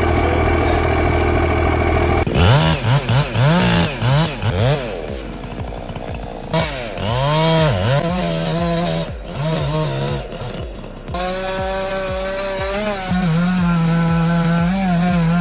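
Chainsaw running steadily for about two seconds, then revved up and down over and over as it bites into wood. From about eleven seconds it is held at a steady high throttle through the cut.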